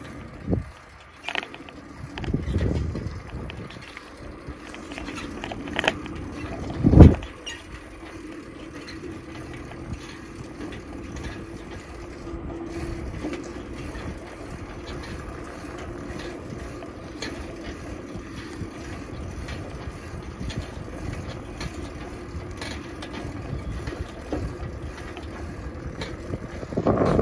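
Riding noise from a bicycle on the move: a steady rumble of wind and tyre noise on a handheld microphone with a faint steady hum. Before it come a few handling knocks and one loud thump about seven seconds in.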